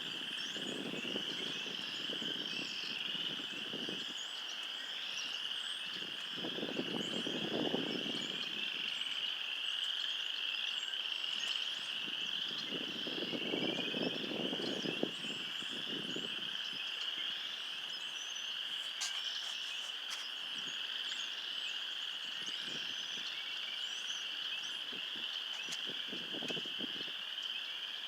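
A dense spring frog chorus, many frogs calling at once in a continuous high-pitched mass of short rising peeps. A lower noise swells and fades several times underneath.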